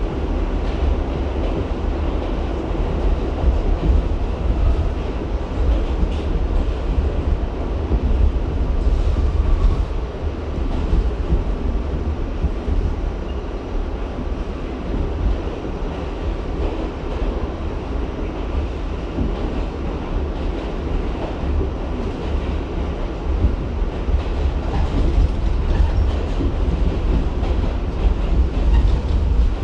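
R68 New York City subway train in motion: a steady rumble of wheels on rail with a strong low drone, faint steady tones and a few light clicks.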